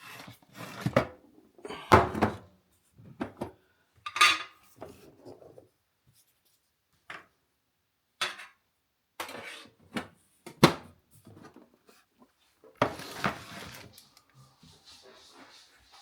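Household objects being handled: a series of separate clattering knocks and clinks, like dishes and cutlery being set down, with short pauses between them.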